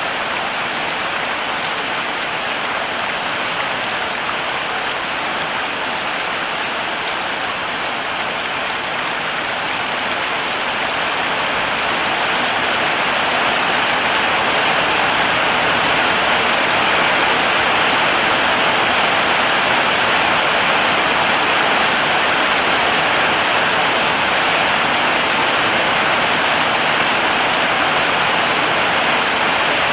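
Heavy rain falling steadily as a dense, even hiss, growing slightly louder about halfway through.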